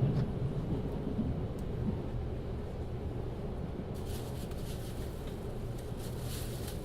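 Inside a JR 383 series electric express train car running on the rails: a steady low rumble of wheels and motors. Faint ticking and crackling joins it about four seconds in.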